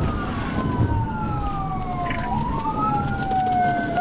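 Police car siren wailing in a slow rise and fall, two overlapping wails crossing each other, over steady road and engine noise.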